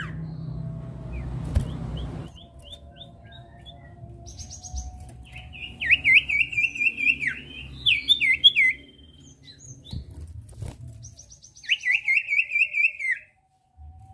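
Common iora (sirtu, cipoh) singing: bursts of fast warbled trills a second or two long, twice in the middle and once near the end, with thinner high twittering notes among them.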